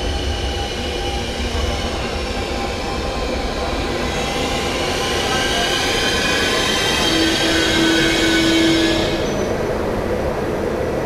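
Intercity Notte night train pulling in alongside the platform over a steady low rumble. From about four seconds in, high squeals from the wheels and brakes as it slows, dying away near the end.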